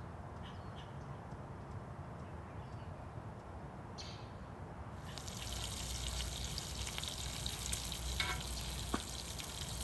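A steady hiss like running or trickling water, which gets louder and brighter about five seconds in, with a few faint high chirps in the first half.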